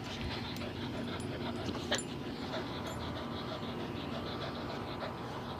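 A dog panting steadily, with a short sharp click about two seconds in.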